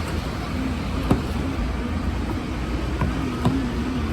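Steady rumbling machinery and traffic noise with a faint wavering hum, broken by two sharp clicks, one about a second in and one near the end.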